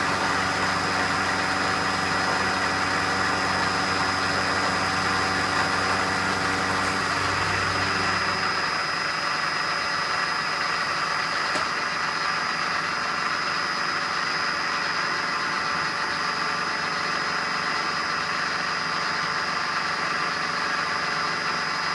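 Metal-cutting machine tool running steadily with a whine of several steady tones. About eight seconds in, its lower hum drops away and it runs a little quieter.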